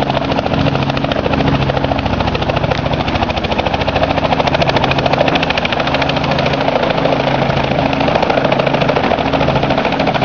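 Helicopter engine and rotor running steadily, loud, with a fast, even chop.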